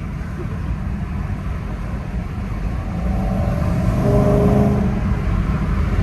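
BMW E90 M3's V8 with a custom exhaust, heard from inside the cabin: a low drone with road rumble, then about three seconds in the engine note climbs under acceleration and drops away about a second and a half later.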